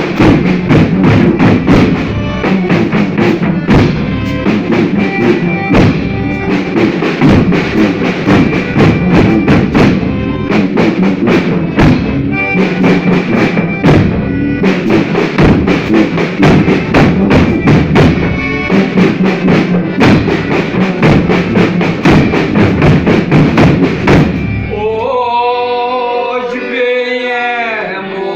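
Folia group playing, with a drum beating steadily under the instruments. The drumming stops a few seconds before the end and a singing voice begins the next verse.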